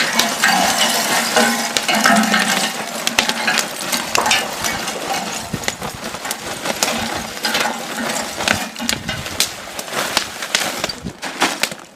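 Lump charcoal being handled and tipped out, a dense run of small clinks, knocks and rattles.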